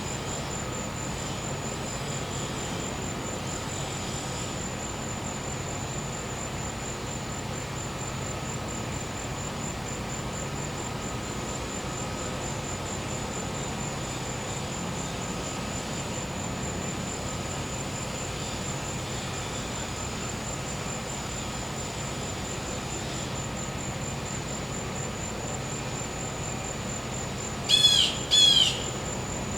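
Crickets trilling in an even, high-pitched pulse over a steady low hum from a gas-powered generator. Near the end a bird gives two loud, sharp calls, each sweeping down in pitch.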